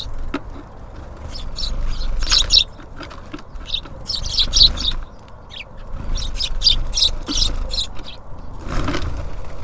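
Small songbirds at a bird feeder chirping in bouts of quick, short, high calls over a low background rumble. A brief rustling noise comes about nine seconds in.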